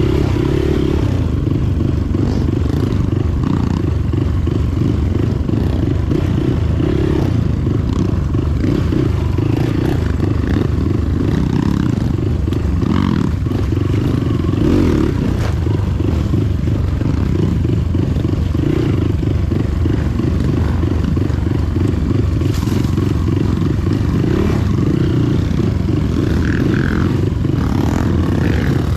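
Motorcycle being ridden, its engine and road noise making a steady loud low rumble.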